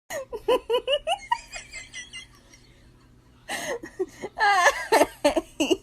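Laughter: a quick run of short giggling bursts, then after a brief lull louder, higher cries that rise and fall from about three and a half seconds in.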